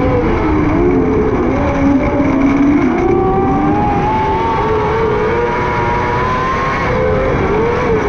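600cc micro sprint car engine running hard on track. The pitch dips and recovers over the first three seconds, climbs steadily for about four seconds as the car accelerates, then drops sharply near the end as the throttle comes off and picks up again.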